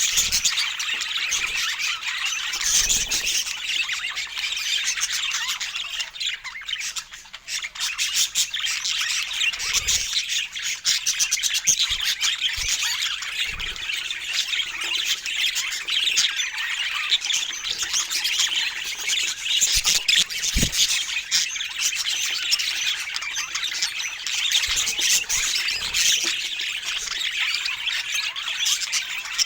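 Budgerigars chattering continuously, a dense stream of chirps, warbles and squawks, with a few brief low knocks.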